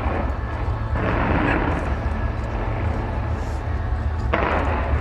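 Fireworks bursting three times, at the start, about a second in and near the end, over a steady low rumble.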